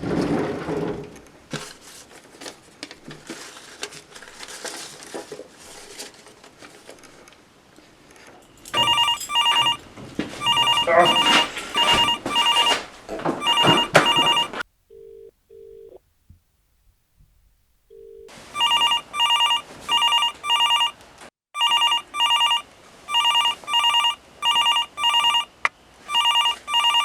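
Telephone ringing with a trilling ring in short repeated bursts, starting about nine seconds in, pausing for a few seconds with a couple of short low beeps, then ringing again. Before the ringing there are quieter irregular handling and movement noises.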